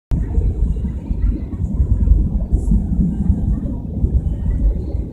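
Vietjet Air jet airliner's engines at takeoff, a steady low rumble.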